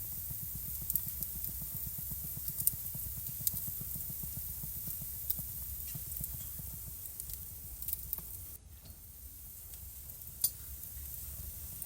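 Wood fire crackling in a fireplace: irregular sharp pops and snaps over a steady low rumble and hiss, with one louder pop about ten seconds in.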